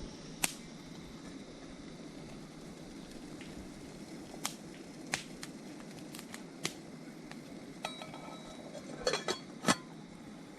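Scattered sharp clicks and knocks over a steady hiss. Near the end comes a ringing clink, like metal or glass lightly struck, followed by a quick cluster of louder knocks.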